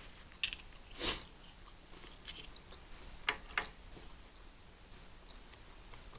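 A person eating a lobster roll close to the microphone: wet chewing and biting, with a louder sharp bite about a second in and two shorter ones a little past three seconds.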